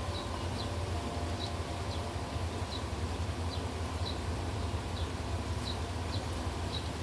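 Steady heavy rain hiss with a deep wind rumble, and repeated short high chirps cutting through it about one to two times a second.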